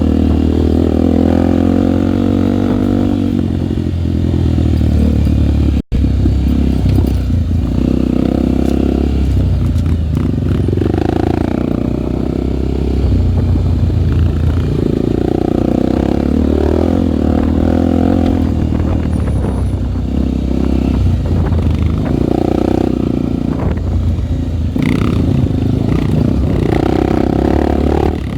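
Honda single-cylinder four-stroke trail motorcycle engine running under way, its revs rising and falling. About six seconds in there is a brief cut to silence.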